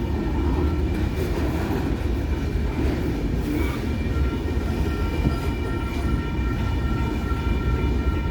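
Train rolling past with a steady heavy rumble of wheels on rail. A steady high-pitched whine joins about four seconds in.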